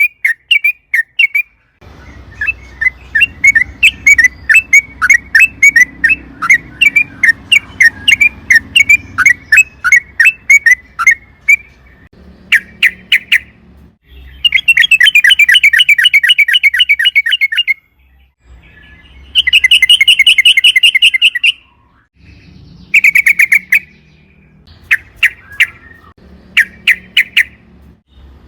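Yellow-vented bulbul (trucukan) singing: a long run of short, bright chattering notes at about three a second, then several fast rattling trills of one to three seconds each, the longest a little past halfway.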